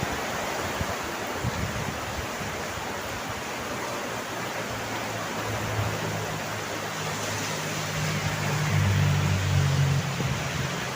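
Steady rain hiss. From about halfway through, a low steady hum joins in and grows louder toward the end.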